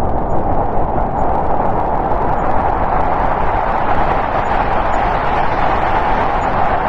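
Snowstorm wind blowing steadily, a constant rushing noise with a low rumble beneath.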